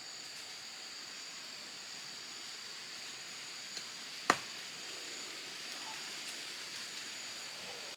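One sharp knock or chop-like strike a little over four seconds in, with a fainter tick just before it, over a steady hiss carrying two thin high tones.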